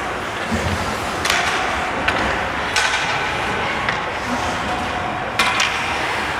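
Ice hockey play in an arena: a steady din broken by about four sharp cracks of sticks and puck striking.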